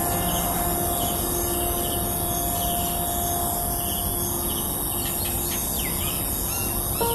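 Birds chirping briefly over a steady high-pitched hiss and a low outdoor rumble. Soft held music notes fade out in the first few seconds.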